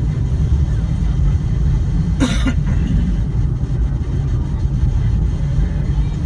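Steady low rumble of a car heard from inside the cabin, with one short burst of noise about two seconds in.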